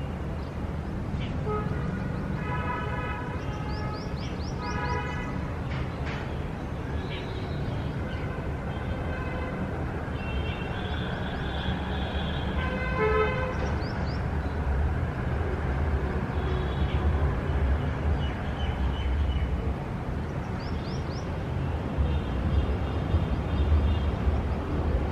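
City street traffic: a steady low rumble of vehicles, with car horns tooting in short blasts several times.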